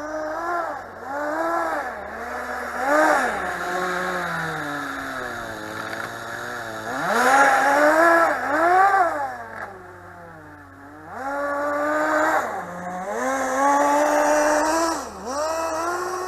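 Small nitro glow engine of a Kyosho Nitro Blizzard RC tracked vehicle, revving up and dropping back in repeated short blips. It sinks to a low, near-idle run for a moment about two-thirds of the way through, then picks up again.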